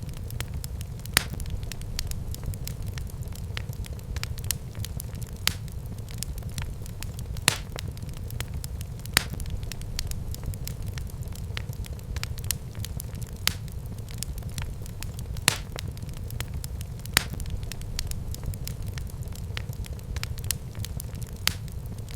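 Wood fire burning in a fireplace: a steady low rumble of flames with constant fine crackling, and sharp louder pops every second or two.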